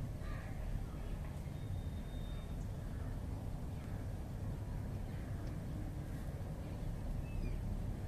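A few faint, brief bird calls over a steady low rumble of background noise.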